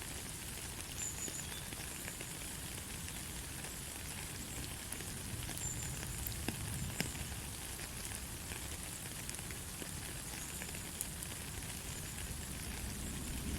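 Steady light rain falling, a soft even hiss with scattered sharp drop ticks.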